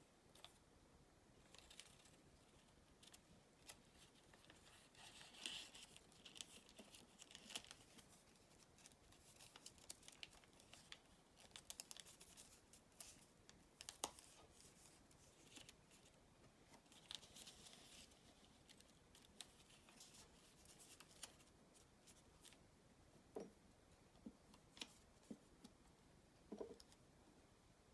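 Origami paper being handled and folded by hand: soft, scattered crinkles, rustles and creasing scrapes, with a few small taps.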